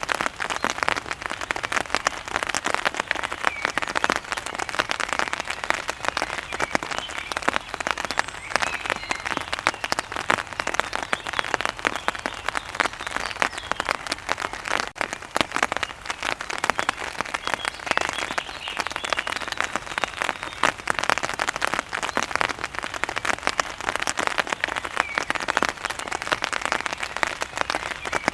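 Steady rain falling, a dense, even patter of drops hitting a surface.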